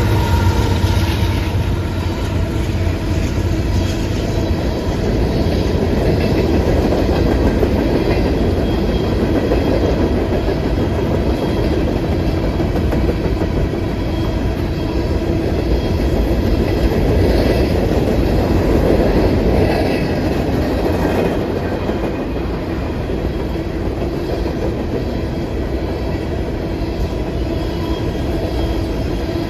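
Freight train cars rolling steadily past, the wheels running on the rails.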